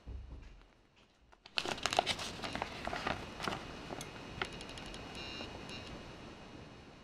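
A plastic Lego polybag crinkling as it is handled and opened. The crackling starts about a second and a half in, is loudest over the next couple of seconds, then tapers off. A brief low bump comes right at the start.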